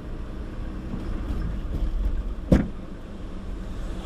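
Steady engine and road rumble inside a moving truck's cab, with one sharp knock about two and a half seconds in.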